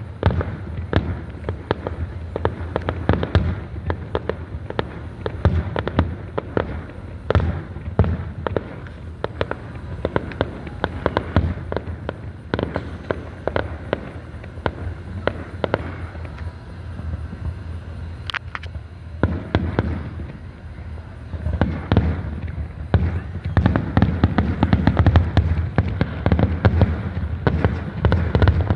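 Aerial fireworks bursting, a steady run of booms and crackles that echo off the surrounding mountains. It thins out briefly past the middle, then the bangs come thick and fast to the end.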